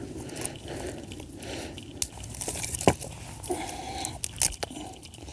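Dry wood and twigs being handled and broken: rustling and crunching, with several sharp snaps.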